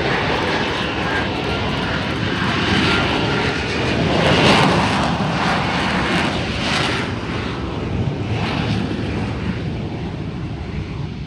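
Aircraft engine noise from a plane flying past. It builds to its loudest about four seconds in, then slowly fades, with a faint whine over the rush.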